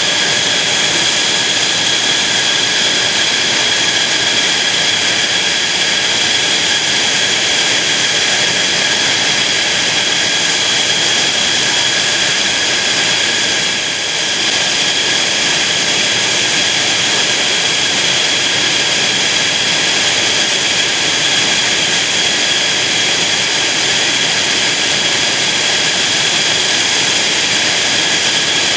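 Jet engine running steadily: a constant rushing noise with a high whine held at the same pitch throughout, not the rise and fall of a passing aircraft.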